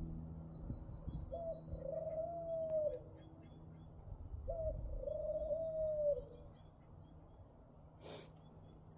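A bird giving two long, low calls of about a second and a half each, a couple of seconds apart, over faint high chirps of small songbirds. There is a short sharp click near the end.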